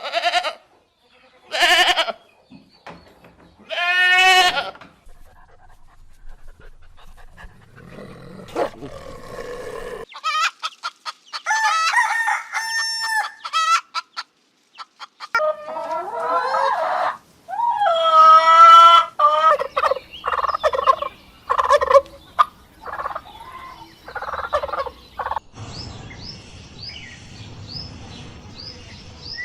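Chickens calling: a rooster crowing and clucking in a string of separate short calls. Near the end, small birds chirping over steady outdoor noise.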